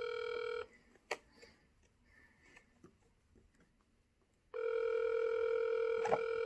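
Telephone ringback tone while an outgoing call waits to be answered: one steady ring stops about half a second in, and after a gap of about four seconds a second ring sounds for two seconds.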